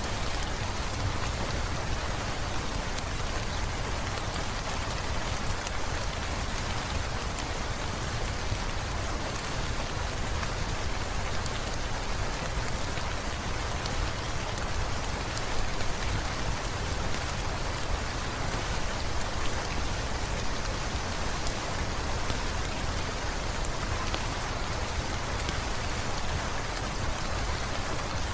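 Steady rain falling, an even hiss with a low rumble underneath and scattered faint sharp ticks.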